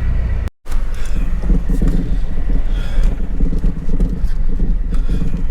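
Car moving slowly, a steady low rumble of engine and tyres heard from inside the cabin. The sound cuts out for a moment about half a second in.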